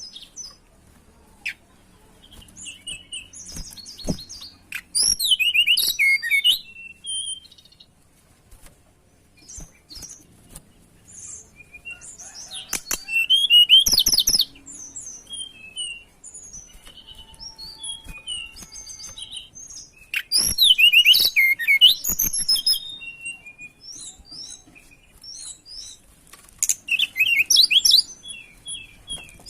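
Tledekan gunung songbird singing in full breeding-season form: loud bursts of quick, high twittering phrases come about every seven seconds, with softer scattered chirps between them. A few sharp clicks are also heard.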